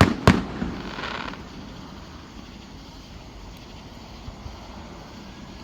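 Two firework shells bursting with sharp bangs in quick succession, about a third of a second apart, followed by a brief fizzing hiss and then a steady low outdoor rumble.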